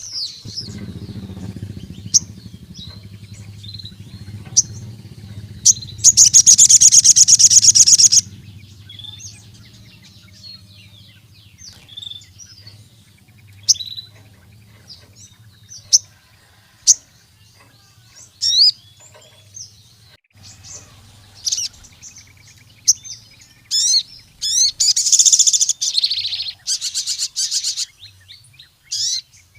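Crimson sunbird (sogon) singing: sharp high chips every second or two, broken twice by loud, rapid trills of about two seconds each.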